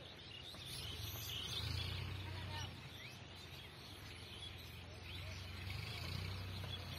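Many birds chirping and calling, short overlapping calls scattered throughout, over a steady low rumble.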